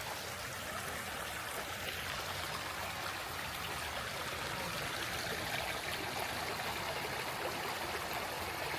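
A creek flowing with a steady, even rush of water.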